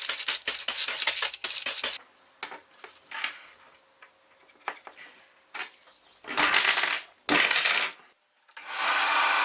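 Small metal parts tapping and clinking rapidly, then a few scattered clicks, followed by two short harsh scraping strokes and steady rubbing near the end.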